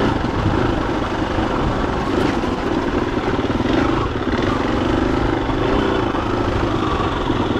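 Husqvarna FE250 dirt bike's single-cylinder four-stroke engine running steadily, with small shifts in pitch about two to four seconds in.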